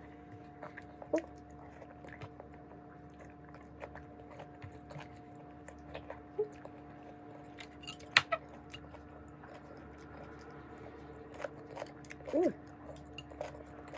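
Close-up chewing and mouth sounds of a person eating cooked vegetables and rice by hand: soft, scattered smacks and clicks, one sharper click about eight seconds in and a brief voiced sound about twelve seconds in, over a steady low hum.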